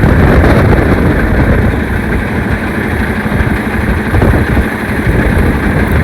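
Semi truck's diesel engine running steadily at low speed as the tractor-trailer reverses slowly.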